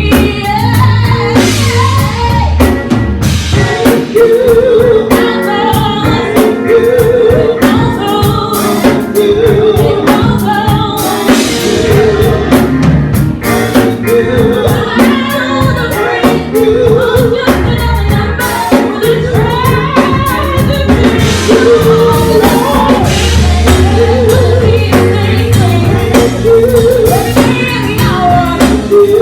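Gospel worship music with drums and singing: a live church band and vocalists performing, the drum kit keeping a steady beat.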